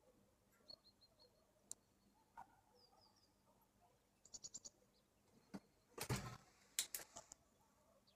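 Faint, high chirping of small birds in short runs of quick pips. About six seconds in comes a louder thump followed by a few knocks: a cat jumping up onto the counter beside the stove.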